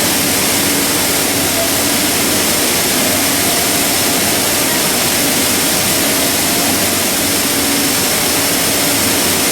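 Plastic pelletizing line machinery running: a loud, steady, even noise with a faint steady hum underneath.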